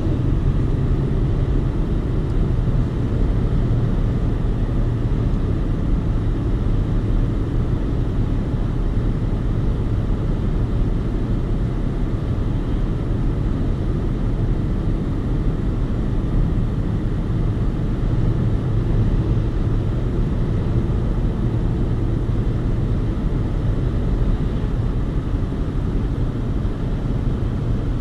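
Cabin noise of a 2020 Chevy Colorado pickup driving at a steady pace: a low engine hum under steady tyre and road noise.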